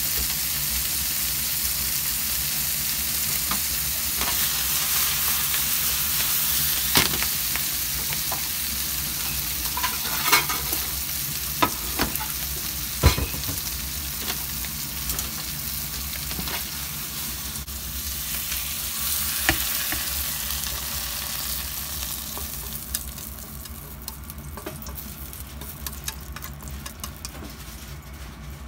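Offal and vegetables sizzling in a nonstick frying pan, with a few sharp knocks of a utensil against the pan as the stir-fry is stirred. The sizzle dies down near the end.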